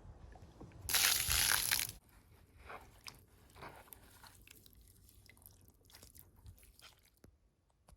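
A loud crunching noise lasting about a second, followed by scattered small crunches and clicks.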